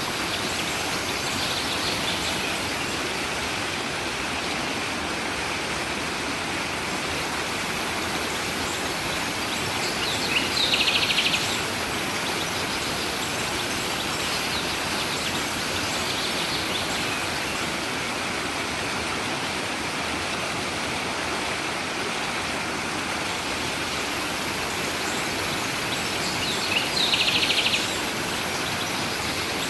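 Stream water running steadily, with a small bird giving a short high chirping call about ten seconds in and again near the end, and fainter calls between.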